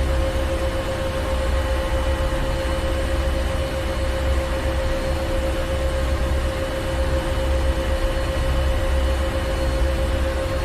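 Ship's engine room: heavy machinery running steadily, a deep low rumble under a constant hum and an even mechanical hiss.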